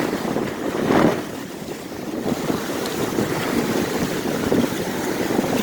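Rough surf breaking and washing in under strong wind, with wind buffeting the microphone; a louder surge of the wave about a second in.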